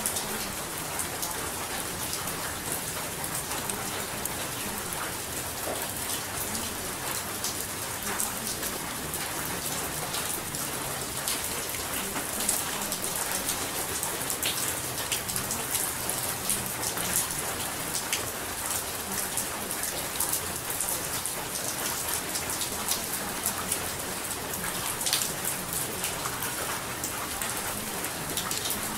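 Steady rainfall: an even hiss with the close patter of many drops.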